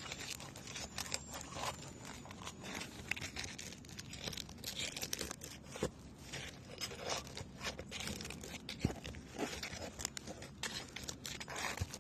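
A roof snake shingle remover prying under an asphalt shingle, with irregular crackling, tearing and scraping as the shingle's adhesive seal strip is broken loose.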